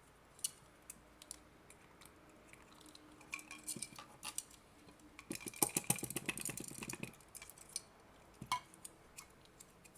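Clicks and clinks of small hard plastic and metal parts being handled, with a dense rattling run of rapid clicks about five seconds in that lasts about two seconds.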